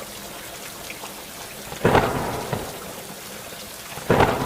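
Steady rain with two sudden loud cracks, about two seconds apart, each dying away over about half a second.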